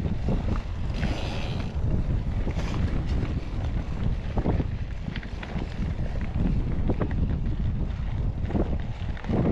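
Wind buffeting the microphone as a steady low rumble, with scattered clicks and rattles from a mountain bike riding over a rough dirt trail.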